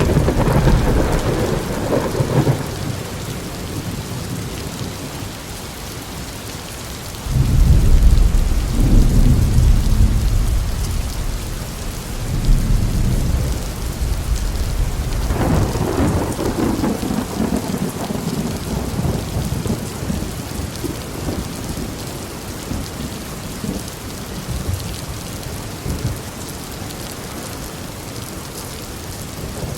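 Thunderstorm: steady rain with rolling thunder. A rumble at the start, a loud one setting in suddenly about seven seconds in, and another clap about fifteen seconds in that rumbles away slowly.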